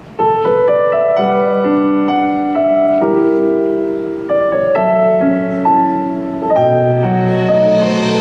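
Piano playing slow, sustained chords as a song's intro, starting suddenly just after the beginning. Near the end a rising hiss swells up under the chords.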